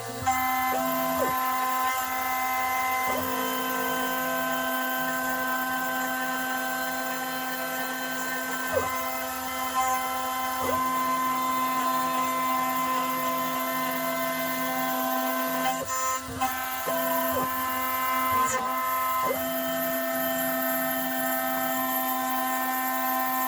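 A small electric motor running with a steady whine, its pitch dipping briefly now and then, with a few light knocks.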